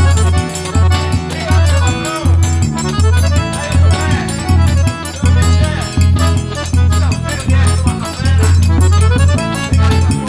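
Forró trio playing an instrumental passage: sanfona (button accordion) carrying the melody over a steady bass line and zabumba drum rhythm.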